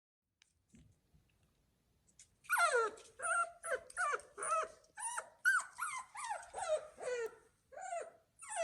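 Newborn poodle puppy whimpering and crying: a run of about a dozen short, high cries, each falling in pitch, about two a second, starting a couple of seconds in.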